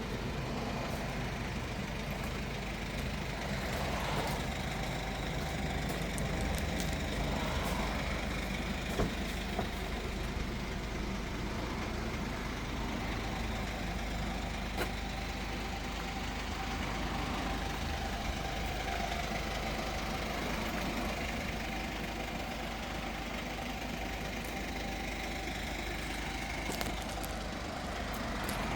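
Mercedes-Benz Sprinter van's diesel engine idling steadily, with a few faint clicks.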